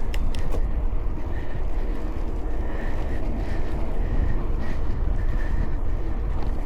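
Wind buffeting the microphone over the rumble of an electric mountain bike rolling along a trail: a loud, steady low rumble, with a faint high whine coming and going.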